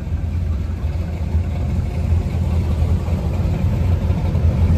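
Classic cars and a pickup rolling slowly past in a cruise line, their engines giving a low, steady exhaust rumble with an uneven pulse.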